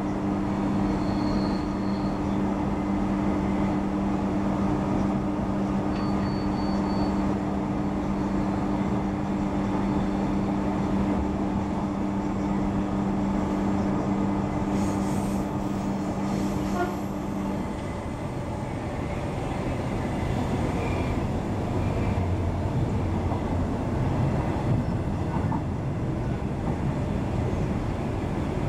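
Queensland Rail electric suburban train heard from inside the carriage: steady running noise of wheels on rail, with a steady hum that stops about two-thirds of the way through, as the train runs into its next station.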